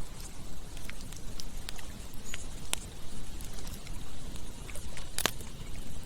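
Campfire burning: scattered sharp crackles and pops from the burning wood over a steady low rumble, with the loudest pop about five seconds in.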